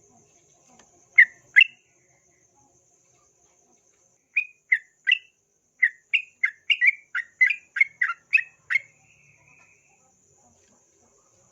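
Yellow-vented bulbul (trucukan) singing in short sharp notes: two about a second in, then a quick run of about a dozen chirps over four seconds. A faint steady high-pitched hiss sits behind it.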